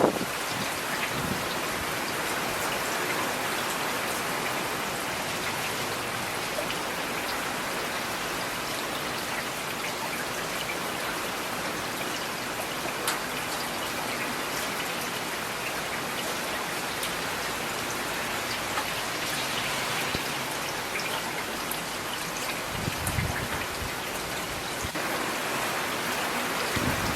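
Steady rain falling on hard surfaces, an even hiss dotted with the ticks of individual drops.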